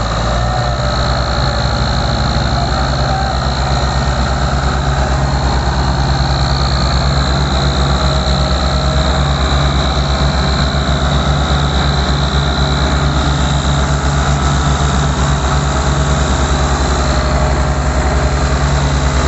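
Tractor diesel engine running steadily, its rapid, even firing beat heard throughout.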